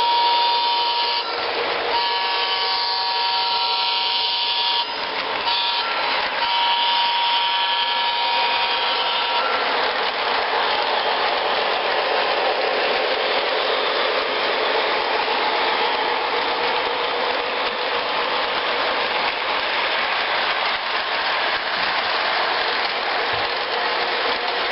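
Train horn sounding a chord in several blasts, the last ending about nine seconds in, followed by the steady rushing noise of the train running.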